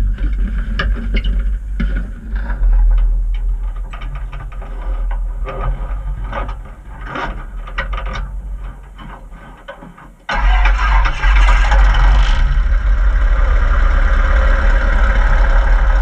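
Piper Super Cub floatplane engine starting: about ten seconds of irregular clicks and knocks, then the engine catches abruptly about ten seconds in and runs loud and steady.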